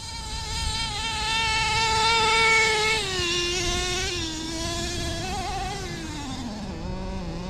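Nitro RC truck's small glow-fuel engine running at high revs with a high buzzing whine. Its pitch drops about three seconds in, wavers, and falls to a steady idle near the end.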